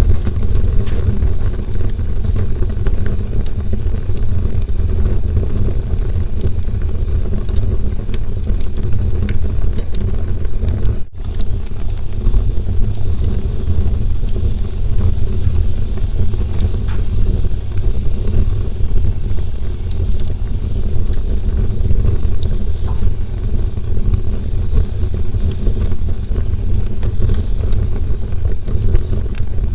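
Campfire burning: a steady low roar of flames with scattered sharp crackles and pops, cutting out briefly about eleven seconds in.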